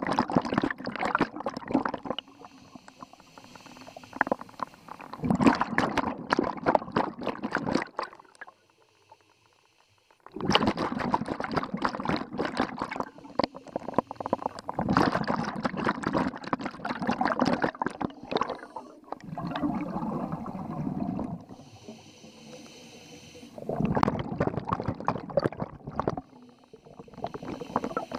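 Scuba regulator exhaust bubbles gurgling in bursts of two to four seconds, one per breath out, with short pauses between while the diver breathes in.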